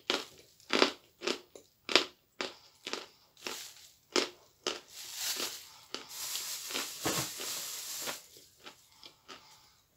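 A person biting and chewing a chunk of dry, chalky edible clay. Crisp crunches come about twice a second, then a longer gritty grinding stretch in the middle, fading to soft ticks near the end.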